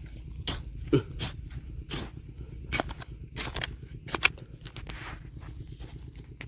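Irregular knocks and scrapes of a tool and stones being worked in stony river gravel while digging for gold, over a steady low rumble.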